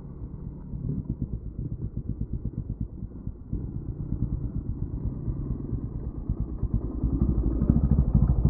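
Honda CR500's big single-cylinder two-stroke engine running in slow, distinct low pulses, getting louder near the end as the bike comes closer.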